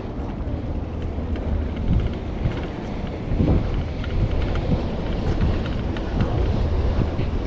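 Wind buffeting the microphone of a camera on a moving bicycle: a loud, fluttering low rumble, with a brief thump about three and a half seconds in.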